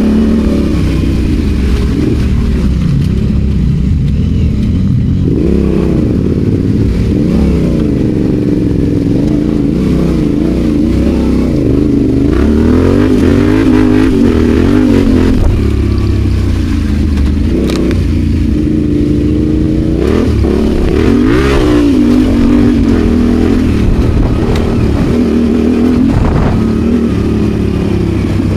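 Adventure motorcycle engine ridden off road, its revs rising and falling again and again as the throttle is worked.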